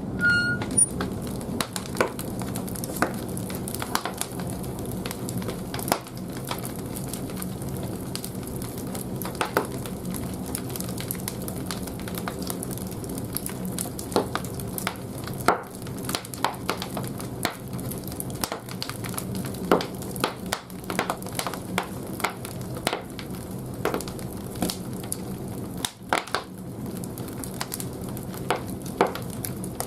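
Large firewood burning in the firebox of an old wood-fired bathhouse boiler: irregular crackling with frequent sharp pops over a steady low hum.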